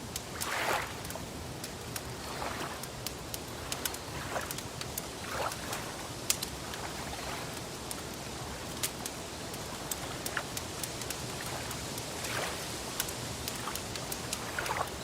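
Wood fire crackling, with many small sharp pops and snaps, over gentle lake water lapping in soft washes every few seconds.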